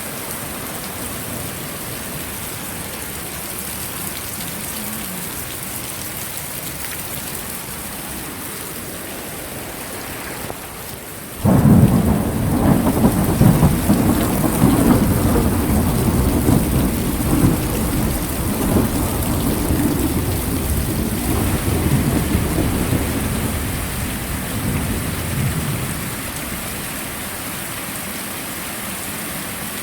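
Steady heavy rain, with a sudden crack of thunder about a third of the way in that breaks into a long rolling rumble for about fifteen seconds before fading back under the rain.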